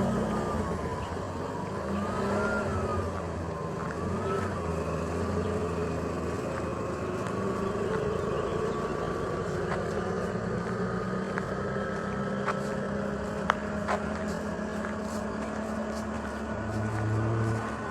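Street traffic noise: motor vehicles running and passing, with a wavering engine pitch in the first few seconds and a sharp click about thirteen seconds in.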